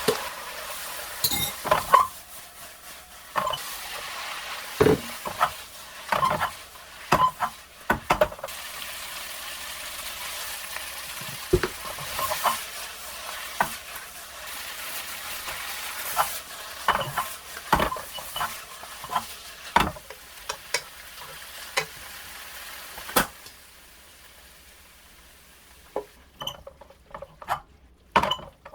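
Stir-fry sizzling in a hot frying pan while being stirred, with frequent knocks and scrapes of a utensil against the pan. The sizzle dies down about 24 seconds in, leaving a few light clicks.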